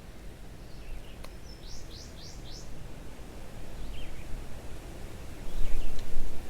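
A bird calling: a quick run of four high notes about two seconds in, then a few fainter chirps. Under it runs a low rumble that gets louder near the end, with a single click early on.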